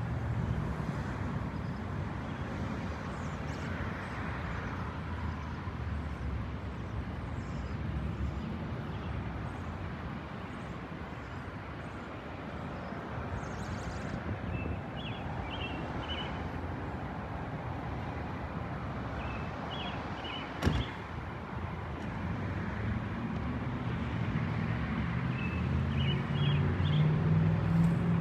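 Steady low rumble of a Boeing 787-9 jetliner flying over, growing louder near the end, with a few short high chirps and a single sharp click about two-thirds of the way in.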